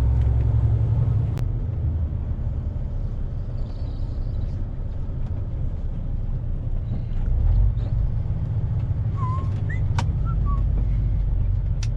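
Truck's diesel engine and road noise heard from inside the cab, a low rumble that eases after about a second and swells again from about seven seconds in. A couple of sharp clicks and a few brief squeaks come near the end.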